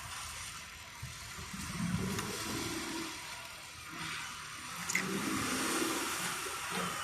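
A car driving, with a steady hiss of road noise.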